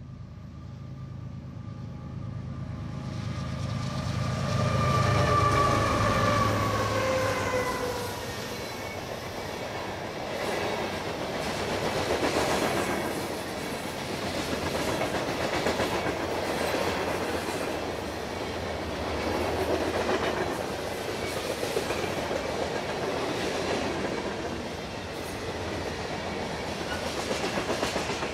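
Freight train passing at speed. The diesel locomotives rumble past with a tone that drops in pitch as they go by, loudest about five seconds in. Then the string of freight cars rolls past with a steady clickety-clack of wheels over the rail joints.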